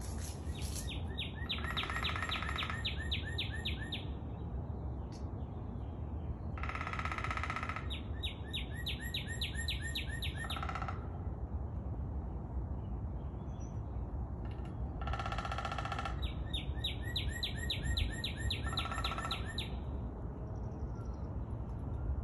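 Several birds calling. Three times, a rapid series of evenly spaced notes runs for two to three seconds at about five or six notes a second. Each series comes close to a harsher call of about a second, and a high thin trill sounds above them.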